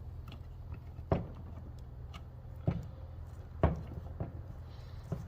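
A makeshift tool knocking against the metal of a tractor's starter switch and nut four times, in sharp separate clinks, while it fails to get a grip; a steady low hum runs underneath.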